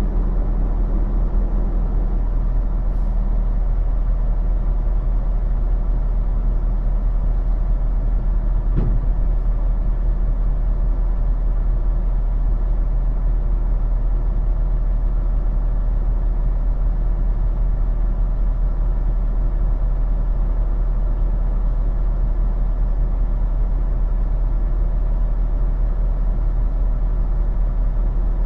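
A semi truck's diesel engine running steadily with a low rumble, and a single light click about nine seconds in.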